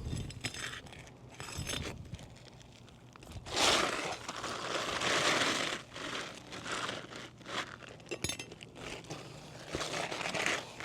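Asphalt roof shingles being worked loose and moved: irregular scraping and crinkling with scattered clicks, with a longer rough scrape a few seconds in.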